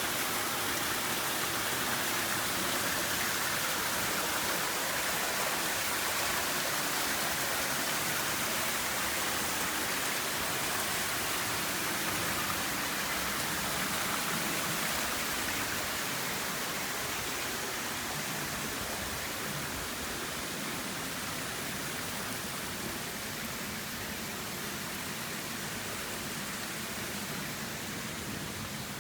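Waterfall: falling water rushing in a steady, even roar, easing slightly about halfway through.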